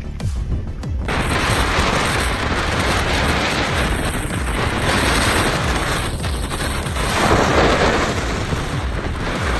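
Strong mountain blizzard wind buffeting the microphone: a dense rushing noise that starts abruptly about a second in and swells and eases in gusts.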